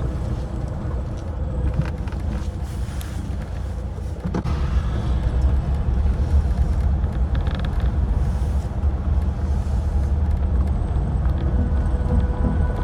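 Air-cooled Volkswagen flat-four running while driving: a steady low engine and road rumble that grows louder about four seconds in.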